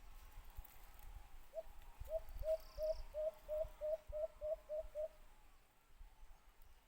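White-eared brown dove giving its cooing call: a series of about a dozen short, low coos that come slightly faster as the series goes on, starting about one and a half seconds in and ending about five seconds in.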